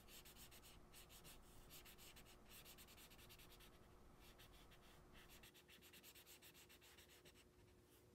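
Faint marker scribbling on paper, quick back-and-forth colouring strokes in a steady run that stops shortly before the end.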